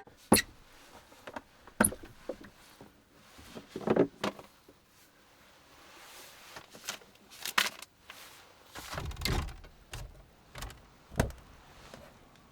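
Scattered knocks, clicks and thumps of objects being handled and set down in a small space, with a longer low thudding scrape about nine seconds in.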